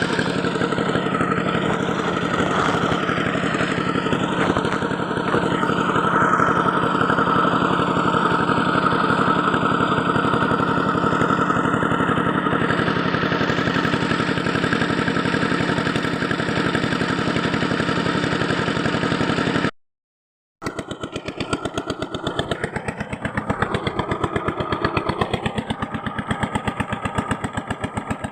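Small electric power tool motor running steadily with a rapid even pulse. It cuts out abruptly about 20 seconds in and starts again.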